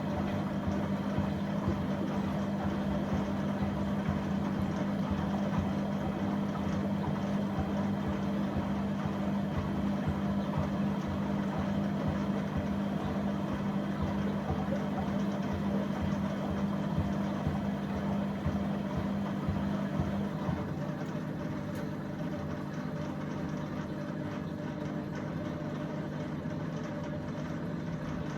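A motor running steadily with a strong hum; about twenty seconds in the hum drops away and a slightly quieter steady running sound goes on.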